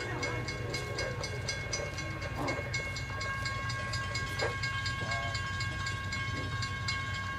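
Freight train approaching from a distance: a low steady rumble, with a rapid ringing of about four strikes a second and steady tones over it.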